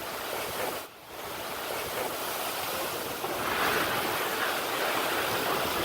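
Strong tornado winds blowing across a phone microphone as an even rushing noise, with a brief drop about a second in and a stronger gust from about three seconds in.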